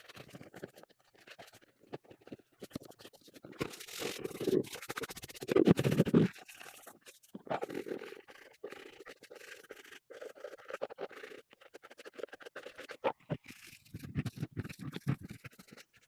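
Irregular scrubbing and scraping strokes from cleaning out a poultry water container, loudest about five seconds in and again near the end.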